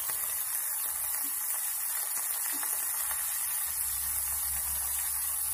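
Oil sizzling steadily in a steel kadai as soaked, squeezed dried bitter gourd fries with onions.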